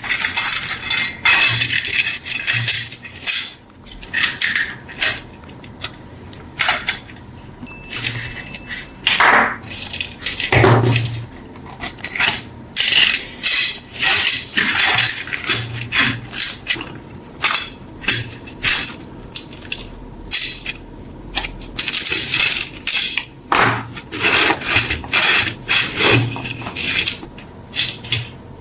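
Hand tools scraping and clinking against metal in many short, irregular strokes.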